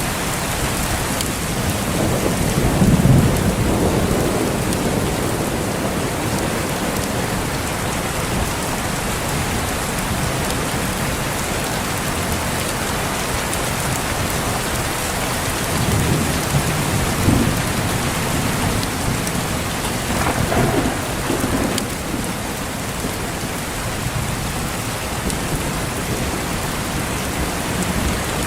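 Steady heavy rain, with thunder rumbling low several times: about three seconds in, and again around sixteen to eighteen and twenty to twenty-two seconds in.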